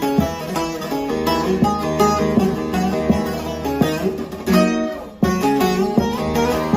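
Divan bağlama, a large long-necked Turkish saz, played with quick plucked notes in a running melody, with a brief break about five seconds in.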